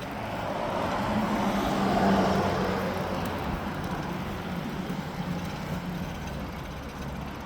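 A motor vehicle passing close by, its engine and tyre noise swelling to a peak about two seconds in and then slowly fading, over a steady low hum.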